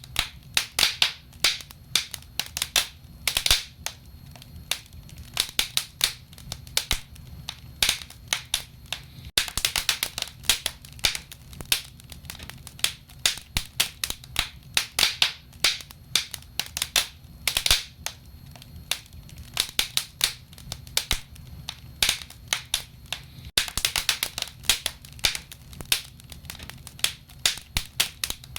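Wood fire in a fireplace crackling, with irregular sharp pops and snaps several times a second over a low steady rumble of the burning.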